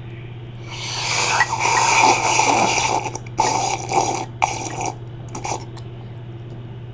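Exaggerated wet sucking and slurping mouth noises made into a phone: one long slurp of about two seconds, then several shorter ones. A steady low electrical hum runs underneath.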